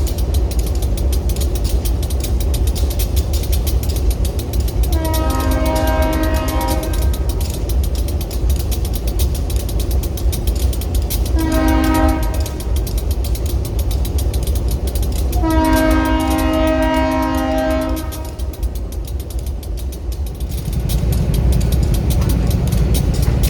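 A locomotive's multi-note air horn sounds a long blast, a short blast and another long blast, the close of the long-long-short-long grade-crossing signal, over the steady heavy rumble of a passing train.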